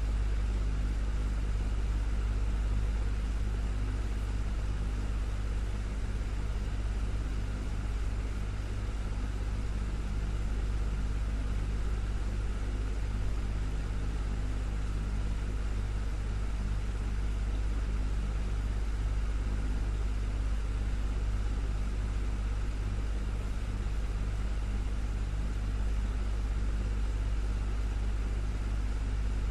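Desktop fan running steadily: a constant low motor hum under an even rush of air, unchanging throughout.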